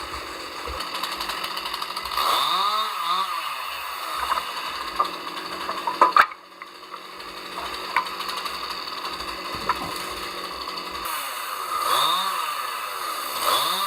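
Chainsaw engine running steadily, its tone swaying up and down as the saw moves. A few sharp knocks come about six seconds in, where the sound cuts off abruptly and then resumes.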